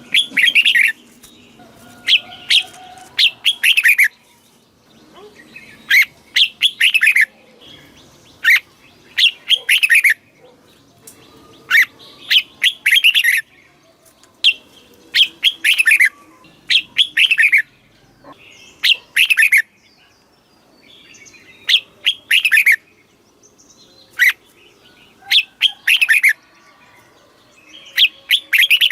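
Red-whiskered bulbul singing: short, bright warbled phrases repeated every one to two seconds.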